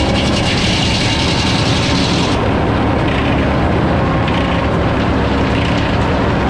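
Sawmill running, its saw cutting lumber with a loud, steady mechanical noise; the highest hiss falls away about two and a half seconds in.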